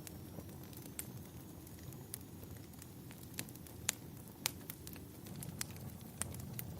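Wood fire in a fireplace crackling: irregular sharp pops and snaps, the loudest about four seconds in, over a low steady rumble.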